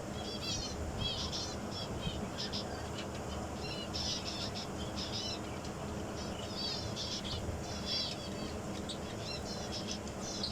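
Many small birds chirping and chattering together in quick, short high calls, over a steady low background hum.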